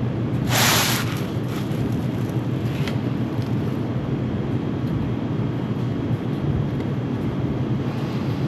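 Denim jeans being cut down into shorts: one brief loud rasp of the fabric about half a second in, then a few faint ticks, over a steady low hum.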